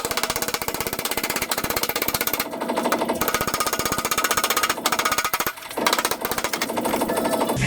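Rapid, even hammering of a power tool, many strikes a second, easing off briefly twice.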